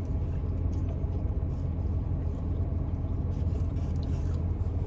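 Car engine idling: a steady low hum with a few faint small ticks over it.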